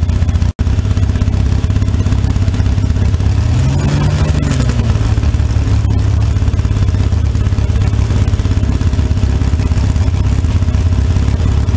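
Fuel-injected Holden 202 straight-six of a slingshot dragster idling steadily, with one short blip of the throttle about four seconds in.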